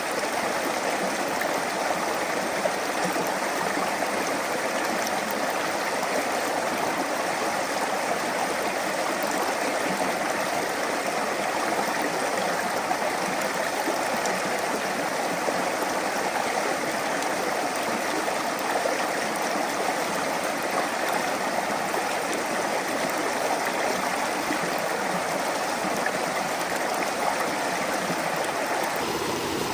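A small brook flowing steadily: an even, unbroken rush of running water.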